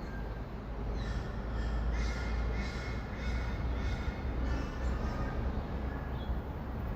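Rainbow lorikeets calling in a quick run of harsh, repeated calls from about a second in to about five seconds in, over a steady low rumble of distant city traffic.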